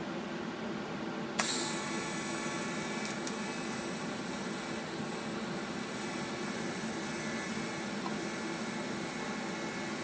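TIG welding arc struck about a second and a half in with a sudden loud burst, then running as a steady buzzing hiss while a root pass joins stainless flat bar to mild steel with 308 filler. A steady hum sits underneath before the arc starts.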